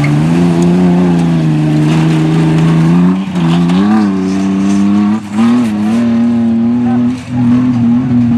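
Tough-truck competition truck's engine running hard under throttle, its pitch rising and falling, with brief dips about three, five and seven seconds in as the driver lifts off or shifts.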